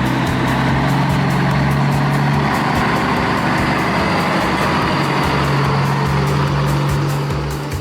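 Engine of a farm vehicle, likely a tractor sound effect, running steadily at a constant pitch, with background music.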